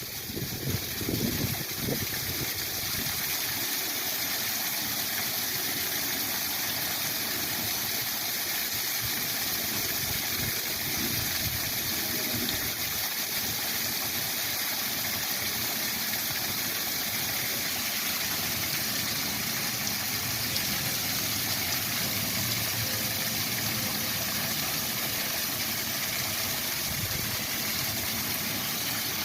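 Waterfall rushing in a steady, even hiss of falling water. Low buffeting of wind on the microphone comes in the first couple of seconds.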